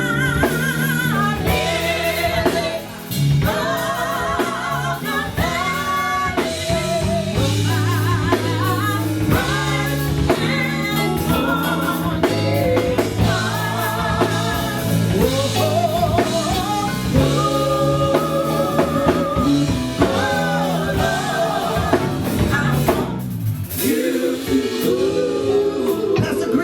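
Live gospel singing with a band: a lead voice singing long, wavering notes over drums, bass and guitar. There is a brief break in the band near the end.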